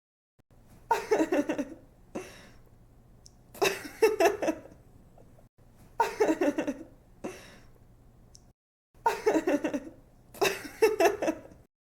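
A young woman laughing: about five bursts of giggling laughter, each under about a second and a half, with softer breaths between and a faint steady hum underneath.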